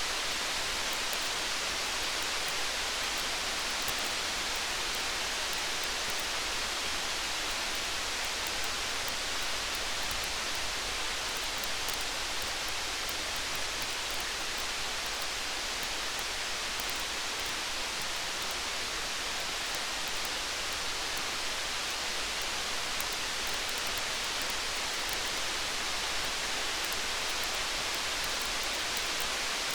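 Steady rain: an even hiss that never lets up, with faint light ticks scattered through it.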